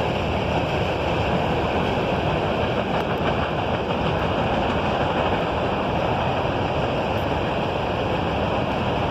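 Norfolk Southern freight train passing at speed: the steady roar of its cars' wheels rolling on the rails.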